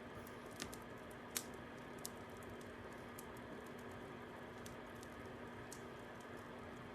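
Fire crackling: a steady soft hiss with a few scattered sharp pops, the loudest about a second and a half in.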